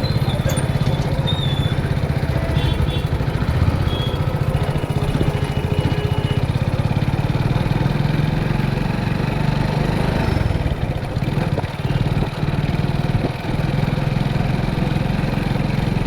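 Motorcycle engine running steadily under way, with a fast, even pulse, dipping briefly twice about three-quarters of the way through.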